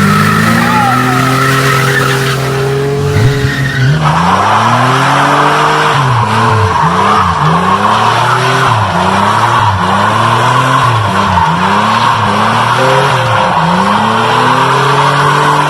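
Car engine revved up and down over and over, about once a second, while the tyres squeal steadily: a burnout. The sound changes abruptly about four seconds in.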